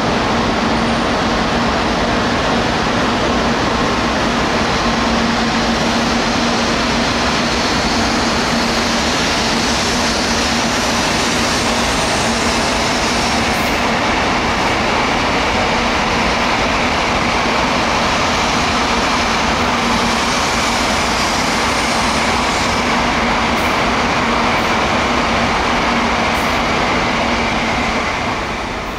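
Tokaido Shinkansen train running through the station: a loud, steady rail rumble with a constant hum, easing off near the end.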